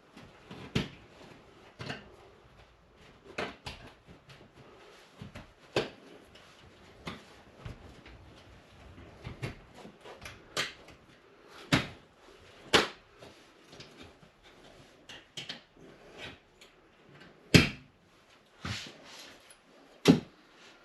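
Irregular knocks, taps and clicks of hand tools working on a wall, roughly one every second or two, with two louder knocks near the end.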